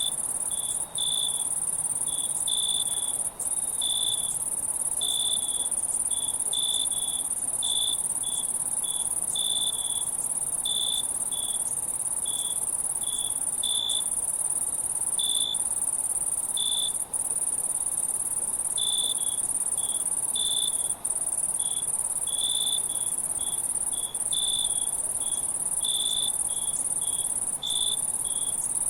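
Insects chirping: a steady high-pitched trill with short, lower chirps repeating irregularly over it, one or two a second, broken by a few very brief dips.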